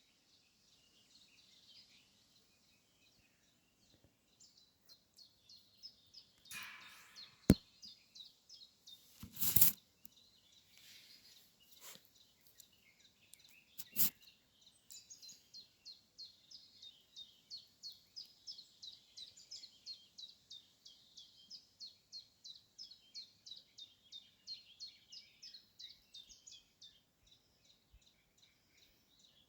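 A songbird singing, repeating short high notes about three times a second for most of the time, with brief pauses. Three loud knocks or bumps cut across the song: one sharp one a few seconds in, a longer one a couple of seconds later, and another near the middle.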